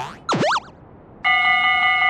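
A cartoon boing sound effect about half a second in, a quick pitch drop and rebound. About a second later a steady electronic tone made of several held pitches starts and holds.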